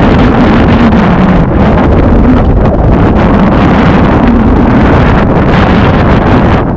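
Loud, steady rushing of the river's whitewater mixed with wind buffeting the camera microphone on a moving raft.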